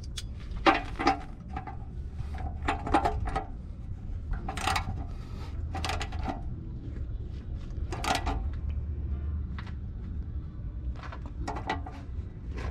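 Scattered metallic clinks and taps of tools on the oil pan drain plug as it is put back in, each ringing briefly, over a steady low rumble.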